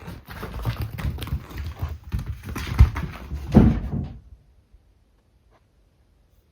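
Two cats, a kitten and an older cat, play-fighting and chasing: a rapid scramble of paw thuds, knocks and scrabbling on the floor that stops about four seconds in.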